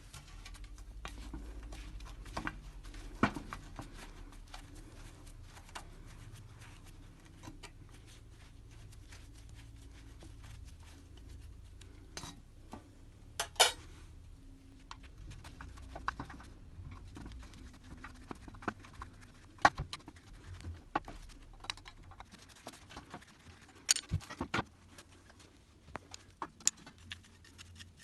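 Scattered clinks and knocks of hard objects, metal on metal, being handled and set down at irregular intervals, over a low rumble.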